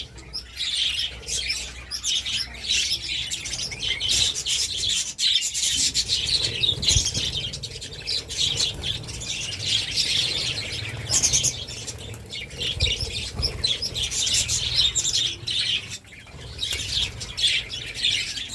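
Budgerigars chirping and chattering continuously, several birds at once.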